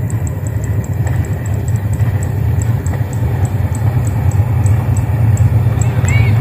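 Low rumble of an approaching diesel-hauled passenger train, growing gradually louder.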